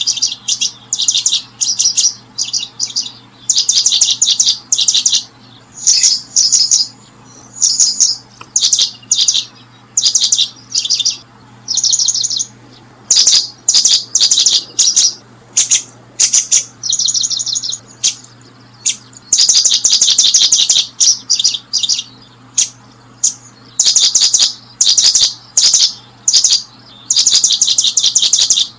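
Small bird chirping in quick, high trilled bursts, one after another with short gaps, over a steady low hum.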